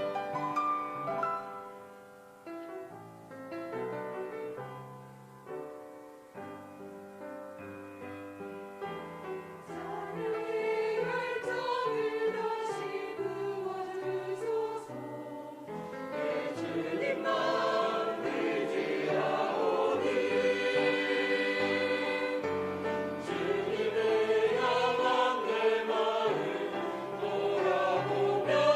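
Church worship team singing a praise song in chorus over piano accompaniment. The opening seconds are softer, mostly piano; the voices come in about a third of the way through and the music grows fuller and louder past the middle.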